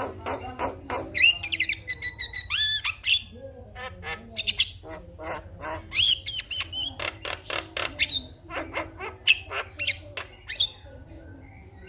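Javan myna (jalak kebo) chattering: rapid clicks mixed with short rising and falling whistles, thinning out near the end.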